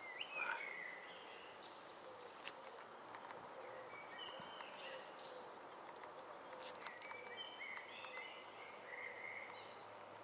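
Small birds chirping faintly in short scattered calls, over a steady low outdoor hiss.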